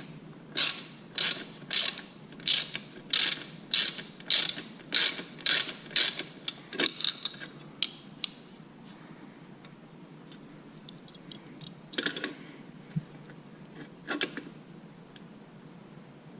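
Ratchet wrench tightening a bolt: about a dozen quick ratcheting strokes, roughly two a second, that stop about seven seconds in, followed by two single clatters later on.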